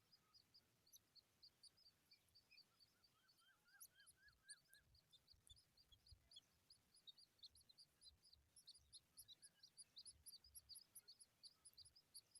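Faint, rapid high-pitched bird chirping, several short chirps a second without pause, with a brief run of lower, rising chirps a few seconds in.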